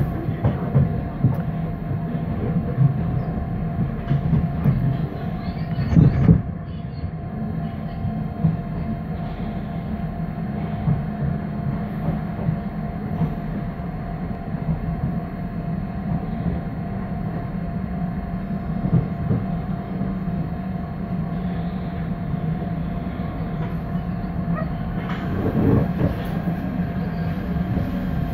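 Passenger train heard from inside the carriage as it arrives at a station: a steady rumble of wheels on rails, with occasional knocks over rail joints and points, the loudest a clunk about six seconds in.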